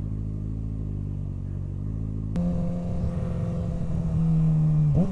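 Suzuki SV650's V-twin engine running low and steady; about two seconds in there is a sharp click, then the engine note steps up and gets louder, holding and slowly falling, with a brief dip in revs near the end.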